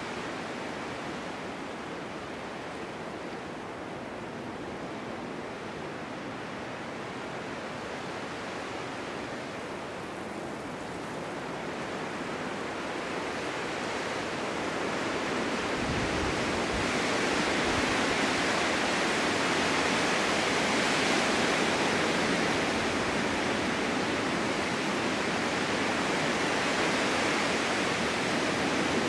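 Snowstorm wind blowing across an open forest meadow: a steady rushing hiss that builds into a stronger, longer gust about halfway through and stays strong.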